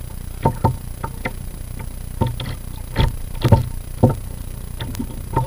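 A series of sharp knocks and thumps at irregular intervals, about nine in all, over a low steady hum.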